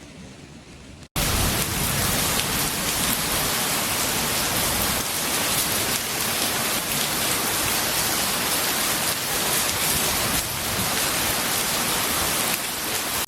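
Rain falling steadily, a dense, even hiss that cuts in suddenly about a second in.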